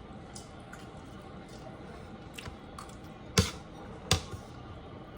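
A person chewing chicken, with soft mouth sounds and two sharp smacks or crunches about three and a half and four seconds in.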